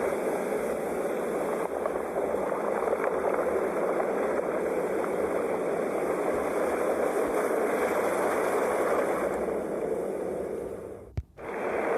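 Steady rushing wash of ocean surf with no distinct breaks between waves. Near the end it fades out, cuts to a brief near-silence with a click, then returns at full level.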